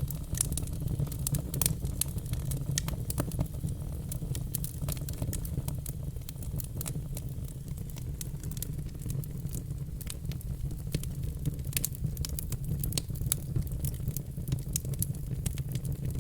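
Wood logs burning in a fireplace, crackling with frequent irregular sharp pops and snaps over a steady low rumble of the fire.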